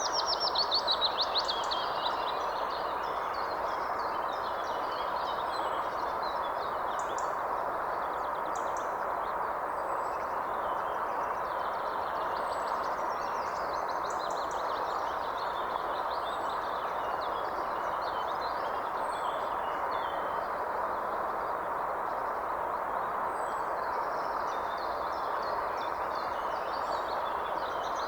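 Wild birds calling and singing over a steady rushing background noise, with a loud rapid trill of falling notes in the first two seconds and scattered shorter chirps after it.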